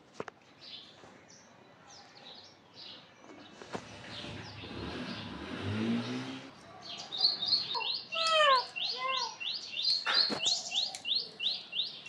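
Bird chirping: from about seven seconds in, a quick, regular run of sharp high chirps, about three a second, with a few lower falling calls among them. Before that there are only faint chirps and a low rising rumble in the middle.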